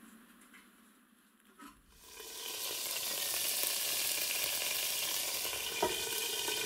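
Pork chops frying on a hot round griddle, a dense sizzle that swells up about two seconds in after a faint, quiet start. Near the end there is a single metallic knock as a stainless frying pan is set down over them as a lid.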